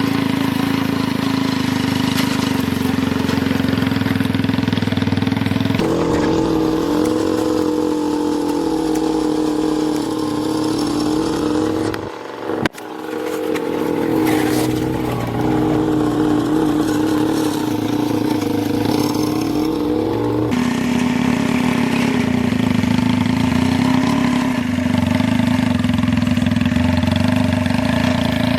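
Mahindra XP Plus tractor's diesel engine running steadily, then running at a higher pitch for about fifteen seconds from about six seconds in, with a brief dropout near the middle, before settling back to its lower note.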